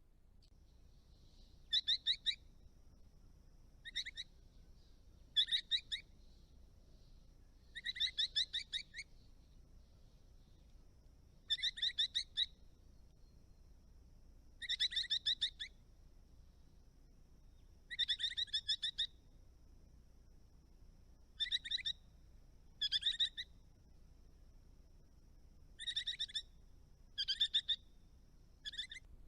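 Rosella calling: short bursts of quick, repeated chattering notes, about a dozen phrases coming every couple of seconds.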